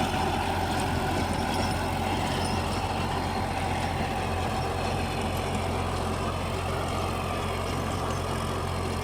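Fiat 480 diesel tractor engine running steadily under load, driving a 42-blade rotavator that churns through grass and soil with a constant low drone.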